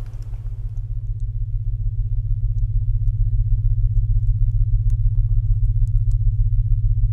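Low synthetic binaural tone humming steadily with a fast, even pulse, as a rain track fades out in the first second. Faint scattered crackles, like a wood fire, sit above the hum.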